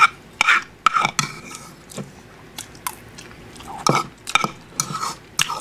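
A man chewing a mouthful of fried rice close to the microphone: wet mouth smacks and clicks in short, irregular bursts.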